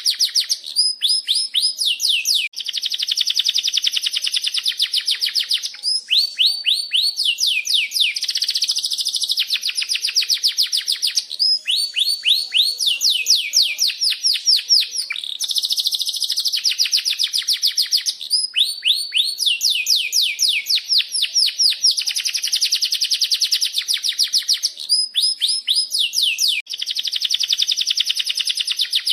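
Canary singing a long unbroken song: fast trills of repeated downward-sweeping notes alternating with dense rolling passages.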